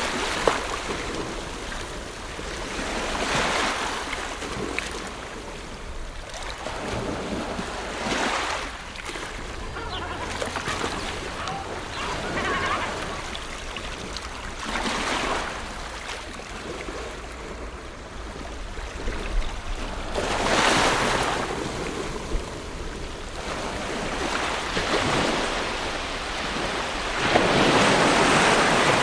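Ocean waves breaking on a shore: a swell of surf every five to seven seconds with the hiss of water washing between them. The largest wave breaks near the end.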